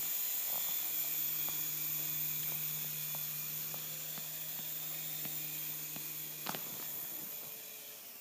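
Small toy helicopter's electric motor and rotors buzzing steadily at an even pitch, with a few faint ticks, fading away near the end.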